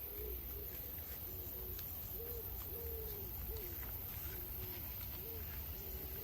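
Birds calling in repeated short, low hooting notes, several overlapping, over a steady low rumble.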